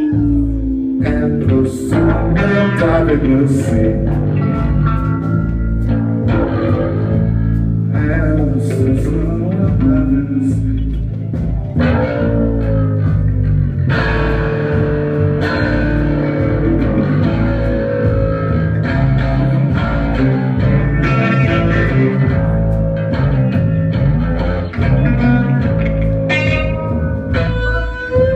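Live band playing an instrumental passage: guitar lines over a steady, pulsing bass, with no singing.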